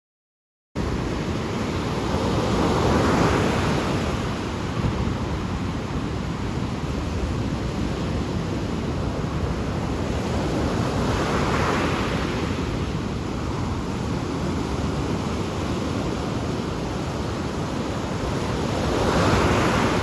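Ocean surf: a steady wash of waves on the shore, swelling louder as a wave breaks about every eight seconds. It cuts in abruptly just under a second in.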